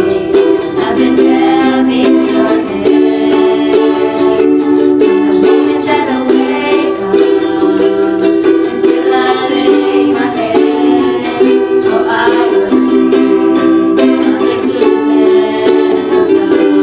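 Ukulele strumming chords, playing a slow worship-song melody with a steady strum.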